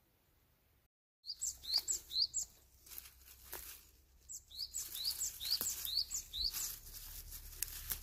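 A small songbird singing repeated short, high, up-slurred notes: a quick run of about four, then after a pause a longer run of about seven. Nothing is heard for the first second.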